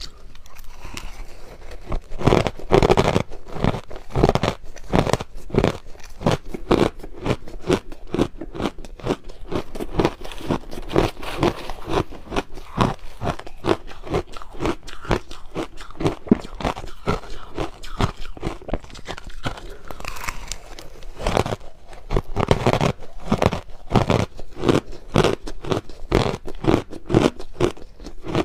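Crushed ice being chewed close to the microphone: a rapid, continuous run of loud crunches, several a second.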